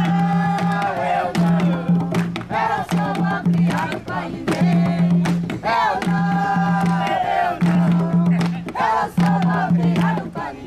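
Jongo being performed: voices singing a bending melodic line over hand drums beating a steady pulse about once a second, with many sharp percussive strikes.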